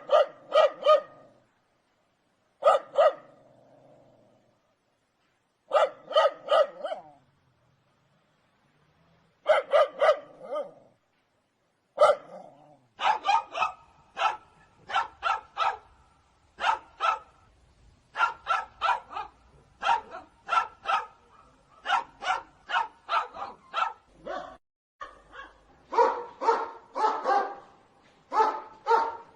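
Dog barking in quick runs of two to four barks with short pauses between them at first, then barking almost without a break from about halfway through.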